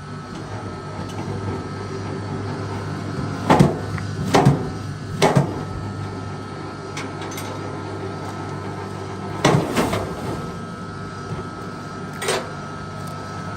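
Sharp knocks of wood being struck, about six blows in three groups, over a steady low machine hum.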